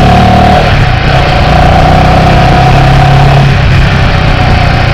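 Motorcycle engine running steadily, its low note under a loud rushing noise.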